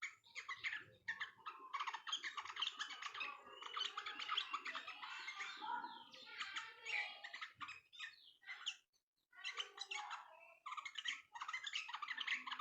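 Yellow-vented bulbul (trucukan) chattering in a dense, rapid run of chirps. There is a brief pause about nine seconds in.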